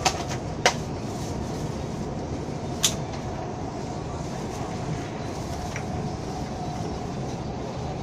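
Interior noise of a moving ETS electric passenger train carriage: a steady rumble of the train running along the track. Three short sharp clicks or knocks stand out in the first three seconds.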